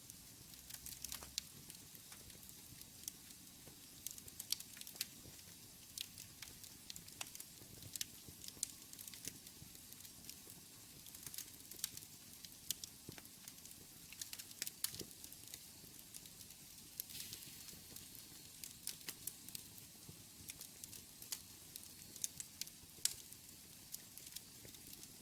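Wood fire burning in a fireplace: a soft steady hiss with irregular sharp crackles and pops scattered throughout.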